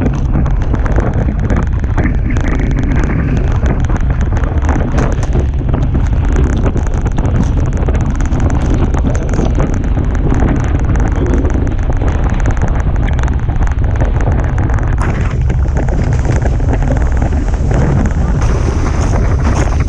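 Strong wind buffeting the microphone aboard a Hobie Tiger catamaran sailing fast, mixed with the rush of water past the hulls: a loud, steady roar heaviest in the low end.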